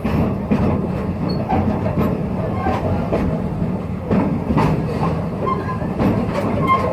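Passenger train cars rolling along the track, heard from on board: a steady low rumble with irregular clicks and knocks of the wheels over the rails.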